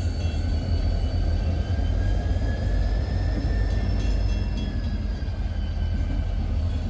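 Diesel freight locomotive running nearby: a deep steady rumble, with a faint high whine that rises slightly and falls back midway.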